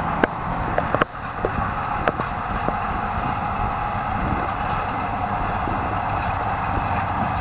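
Tacoma Rail's EMD GP38-2 diesel locomotive and its passenger cars rolling past with a steady rumble. Several sharp clicks of wheels over the rail joints come in the first couple of seconds.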